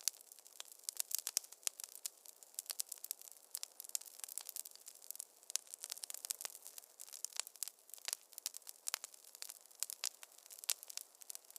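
Wood fire in a fireplace crackling, with many quick, irregular pops and snaps over a faint hiss.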